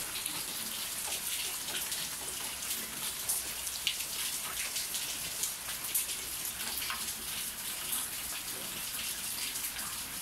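Heavy rain falling on a wet concrete yard, a steady hiss with many small drops pattering and splashing into the standing water.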